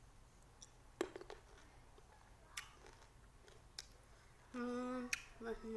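A woman biting and chewing a whole small green lime, with a few sharp crunching clicks. Near the end she hums a steady 'mmm' twice, louder than the chewing.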